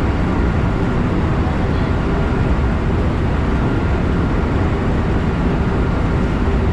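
Steady rumble of a JR West electric train running along the track, heard from inside the front car, with a faint steady high tone.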